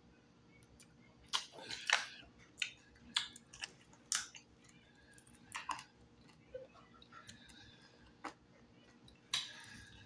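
Close-miked chewing of crispy deep-fried turtle: irregular sharp crunches and wet mouth clicks about once a second, the strongest about two seconds in and near the end.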